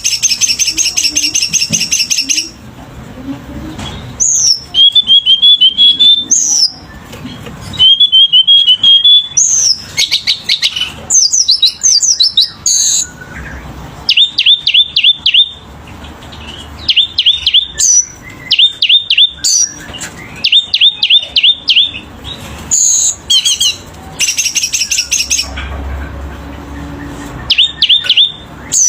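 A Selendang Biru songbird singing loudly in a varied, energetic song full of inserted phrases (isian). A fast, buzzy trill opens the song and returns near the end, with slurred whistles, short warbled runs and groups of quick repeated down-slurred notes in between.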